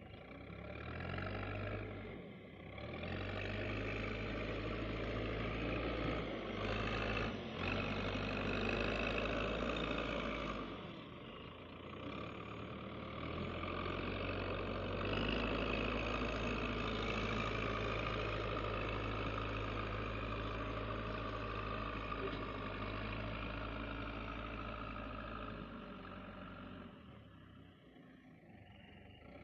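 Heavy diesel engine working hard under load, the revs rising and easing off several times, with brief drops about two seconds in, around eleven seconds and near the end.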